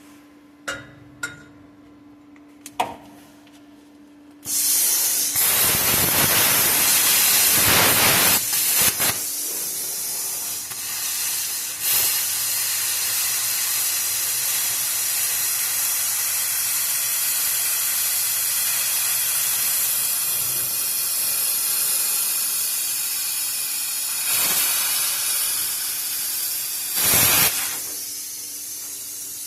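Bestarc plasma cutter cutting through a truck's exhaust pipe: after a few light clicks over a faint steady hum, a loud, steady hiss of the arc and air starts about four seconds in and runs for about 25 seconds, swelling briefly near the end before it cuts off.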